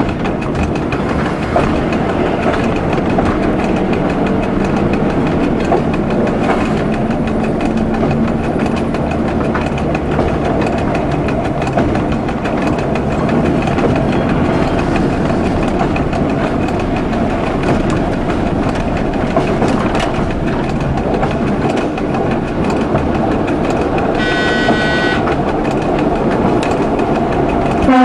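Local passenger train running along the line, heard from the driver's cab: a steady running noise of wheels and drive, with scattered rail clicks. A short high-pitched signal tone sounds for about a second a few seconds before the end.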